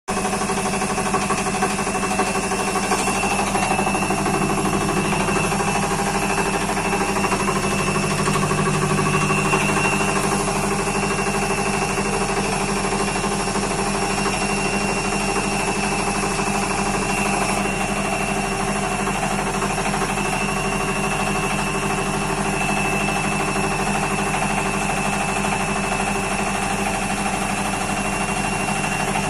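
IFB front-loading washing machine in its final spin with an overloaded drum, running at a steady speed. A high motor whine sits over a fast, even rattle and knocking from the heavily loaded drum.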